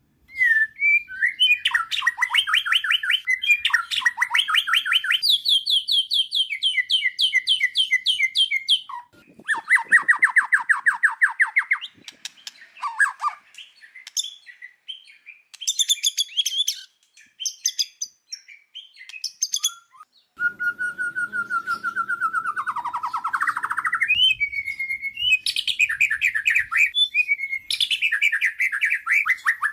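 White-rumped shama singing: loud phrases of fast, evenly repeated notes, several per second, broken by short pauses, with higher scattered notes in between and a long falling glide about two-thirds of the way through.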